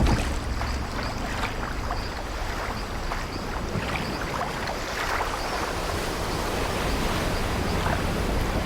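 Sea waves washing and wind blowing steadily, with a few short creaks from an old wooden ship's timbers.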